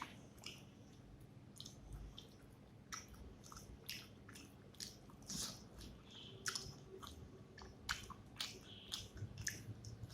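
Close-up mouth sounds of a person eating rice with fish curry and cucumber: irregular wet chewing and smacking, with the odd crunchier bite.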